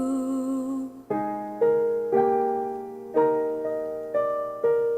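Song accompaniment: a held note with vibrato fades out about a second in, then a piano plays chords, struck about twice a second, each decaying before the next.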